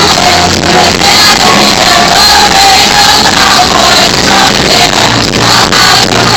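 Live pop music with a singer, very loud and distorted, as heard through a phone's microphone.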